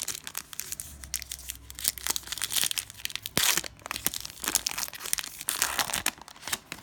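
Cellophane wrapper of a trading-card pack crinkling and tearing as the pack is opened, with dense crackling throughout.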